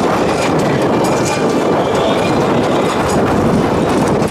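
Strong wind buffeting the microphone: a loud, steady rushing and rumbling noise.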